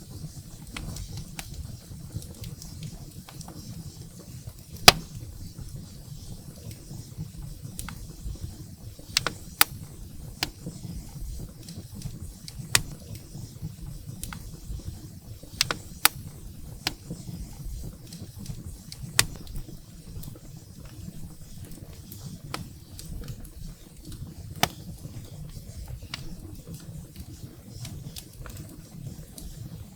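Wood fire burning in a fireplace: a steady low rumble of the flames with irregular sharp crackles and pops from the burning firewood, one louder pop about five seconds in.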